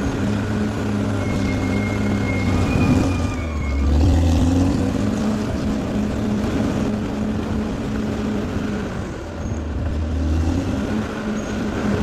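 Bulldozer engine running steadily, its note dropping deeper and louder twice, about three and a half seconds in and again near the nine-second mark, as the load changes. A faint high whine sits over it for the first few seconds.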